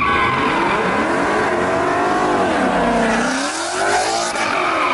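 A car's engine revving hard, its pitch rising and falling with a deep dip about three seconds in, over the steady screech of spinning tires.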